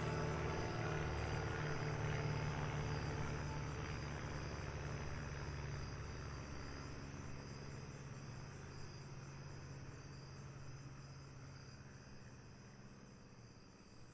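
Field recording of a steady insect chorus, a high continuous chirring, over a low steady rumble of distant traffic, the whole fading out gradually.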